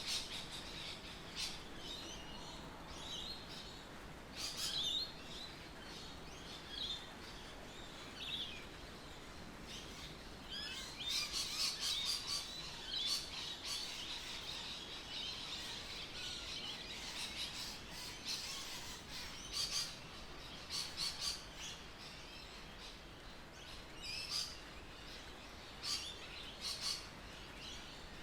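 Birds chirping in many short, high notes, several overlapping, busiest about eleven to fourteen seconds in, over a faint steady background hiss.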